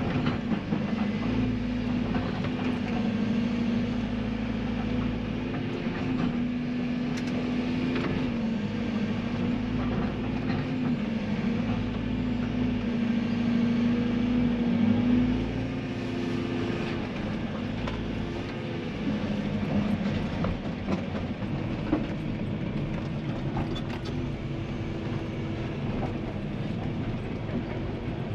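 Tracked excavator's diesel engine running under varying load, its note rising and falling as the hydraulics work, with scattered knocks and clanks from the machine.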